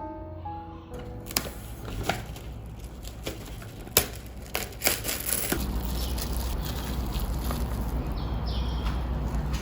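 Kitchen handling noises: a run of scattered clicks and knocks from utensils and containers, two sharper knocks standing out, then a steady low hum with hiss.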